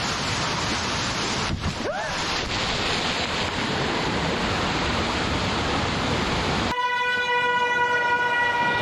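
A loud, steady rush of storm rain and water. About seven seconds in it cuts off abruptly, and a car horn sounds one long, steady note.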